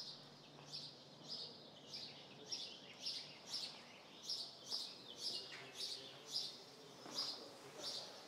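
A bird chirping over and over, short high chirps, each falling in pitch, about two a second.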